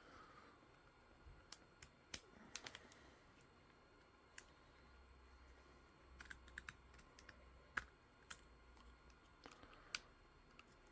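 Faint, irregular small clicks and scrapes of a blade working support material off a 3D-printed plastic part.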